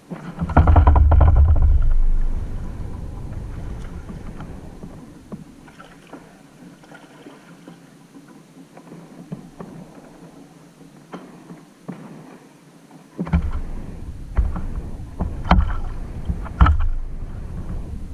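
Kayak on the water: scattered knocks and water sounds from paddling and gear against the hull. A loud low rumble comes about a second in, and a cluster of heavy low thumps comes near the end.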